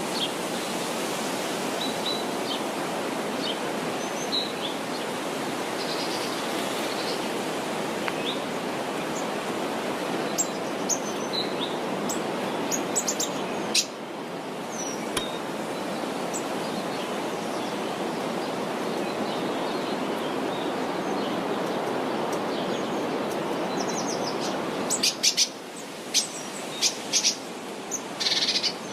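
Birds chirping over a steady rushing background noise, with a cluster of short, sharp, louder chirps near the end.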